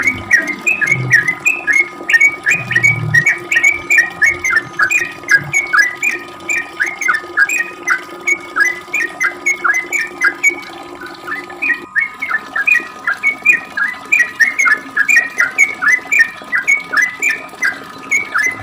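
Yellow-vented bulbul (trucuk) singing a long, unbroken run of short chirping notes, about three a second. A low steady hum sits underneath and cuts off with a click about twelve seconds in.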